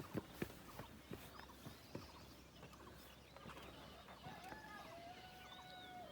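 Faint footsteps on a trail, a few soft scuffs in the first couple of seconds, with a faint drawn-out call in the last second and a half.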